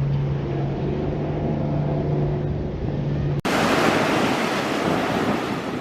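A boat engine running with a steady low drone over water noise; a little over halfway through it cuts off abruptly to waves washing on the shore, with wind buffeting the microphone.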